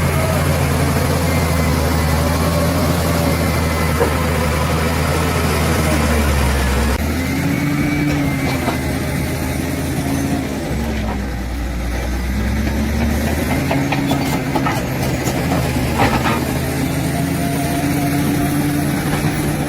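Bulldozer's diesel engine running under changing load, its pitch dropping and rising again several times, with a couple of sharp knocks.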